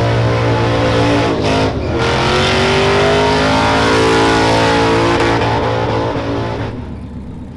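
Truck engine held at high revs, dropping briefly about a second and a half in, then climbing again before fading away near the end.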